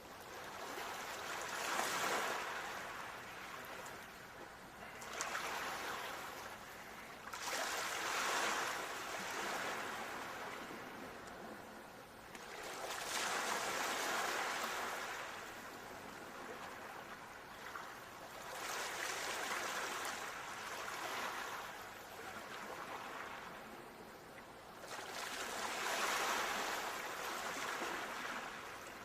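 Ocean waves breaking and washing up, each swelling and fading in turn, about one every six seconds.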